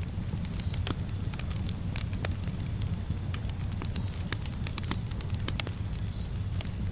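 Campfire burning, with frequent sharp crackles and pops over a steady low rumble of the flames.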